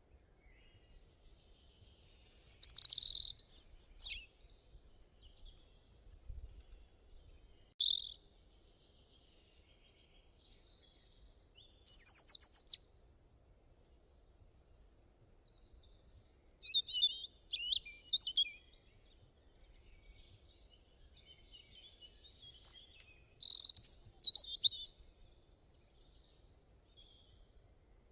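Small birds singing and chirping in several short, high-pitched phrases with quiet gaps between them.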